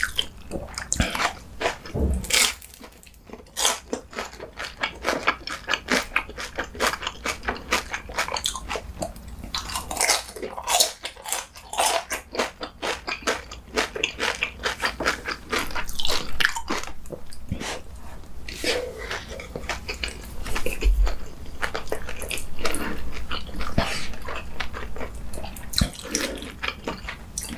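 Close-miked crunching and chewing of crispy battered fried eggplant: many rapid crisp bites. Two dull knocks come about two seconds in and again past twenty seconds.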